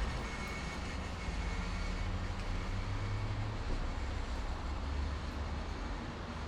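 Highway traffic at night: a steady low rumble of engines with tyre hiss from passing vehicles, rising and falling only slightly.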